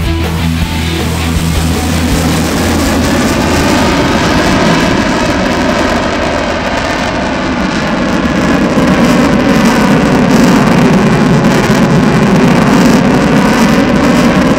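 Jet aircraft flying past: a loud, steady roar that swells about two-thirds of the way through. Guitar music fades out in the first couple of seconds.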